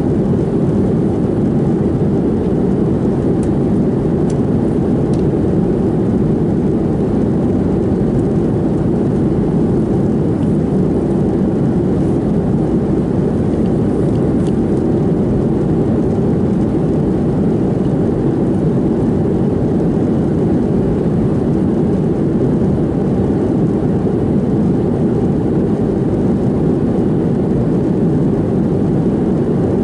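Steady in-cabin drone of a Boeing 737-700 in cruise: its CFM56-7B turbofans and the airflow over the fuselage, a deep, even rumble with no change in level.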